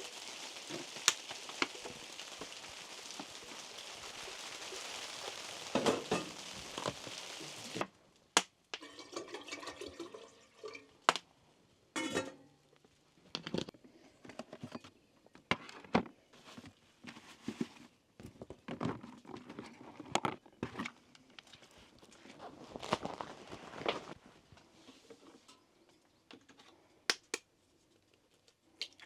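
A steady hiss that stops abruptly about eight seconds in, then scattered clicks, knocks and light clinks of small objects being handled.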